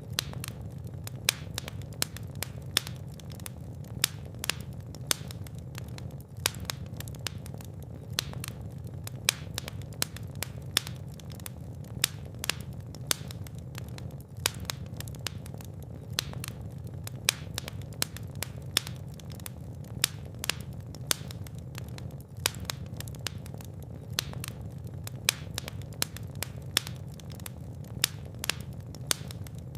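Fire in a fireplace crackling steadily, with many sharp pops and clicks, a louder pop about every second, over a steady low hum.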